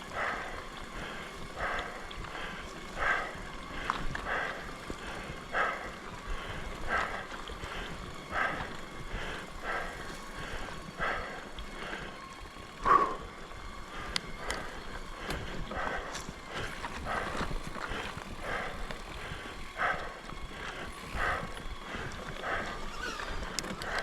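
Mountain bike being ridden along a forest trail, with a regular rhythmic sound repeating about once a second and one louder knock about halfway through.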